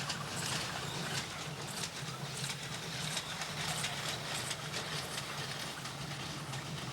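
Narrow-gauge steam train on a plantation railway running, a steady low hum with irregular light knocks and rattles.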